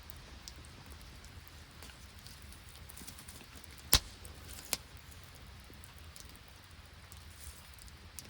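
Two sharp knocks less than a second apart, near the middle, the first much louder, over faint scattered ticking of rain drops.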